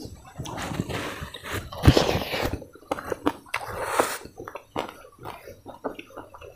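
A person chewing food close to the microphone: irregular wet mouth sounds with crunching bites and clicks, the loudest bite about two seconds in.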